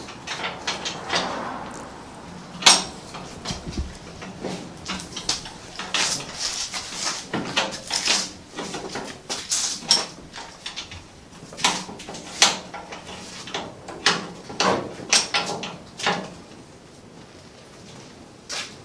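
Irregular metallic clanks, clicks and knocks from tools and engine parts being handled on a vintage tractor, a few of them sharper than the rest. No engine is running.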